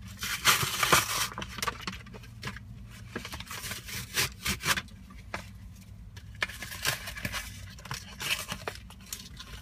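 Plastic blister packaging and its cardboard backing being torn and pried open by hand: a run of irregular crinkling, tearing and scraping noises with sharp clicks, loudest about half a second to a second in.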